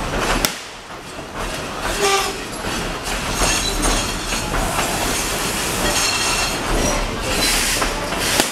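Tweetsie Railroad's narrow-gauge steam train running, its cars rattling and clacking steadily over the track.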